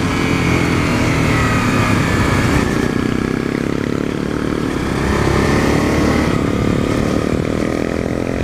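Dual-sport motorcycle engine running steadily under load on a dirt road, its pitch climbing over the last couple of seconds as it speeds up.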